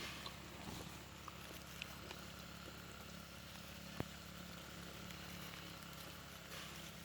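Faint outdoor background with a steady low hum and a few scattered light clicks, the sharpest about four seconds in.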